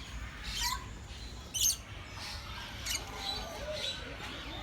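Birds calling: three short, sharp, high-pitched chirps about a second apart, with fainter thin whistles after them.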